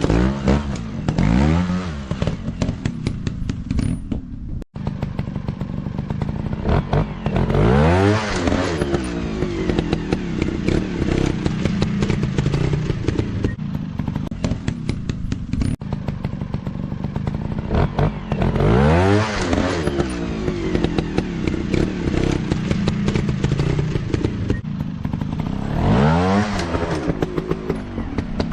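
Dirt bike engines running and revving, the pitch rising and falling with the throttle several times, over a steady engine drone with frequent small knocks.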